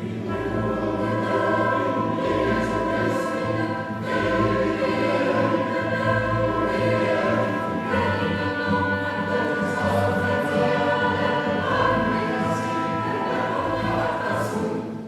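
Mixed choir singing with chamber orchestra in a setting of the Mass, with held chords throughout. The music stops near the end and dies away in the church's reverberation.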